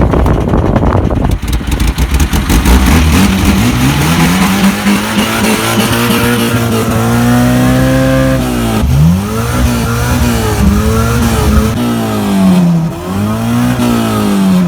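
VAZ 21099 engine running on a makeshift temporary fuel supply, revved up and held, then blipped up and down several times in quick succession.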